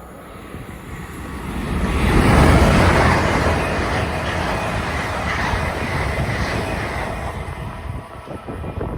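A train passing close by: its rail noise builds over about two seconds, is loudest about two and a half seconds in, holds for several seconds, then drops away near the end.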